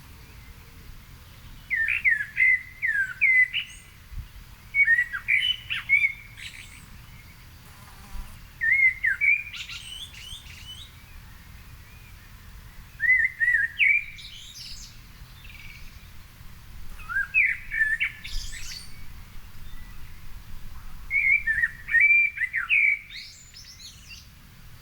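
A songbird singing six short warbling phrases, each about two seconds long, with pauses of a couple of seconds between them. A faint low rumble runs underneath.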